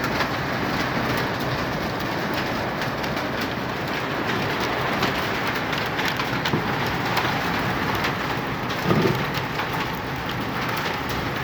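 Heavy hailstorm: a dense, steady rush of rain and hail, with many sharp ticks of large hailstones striking hard surfaces.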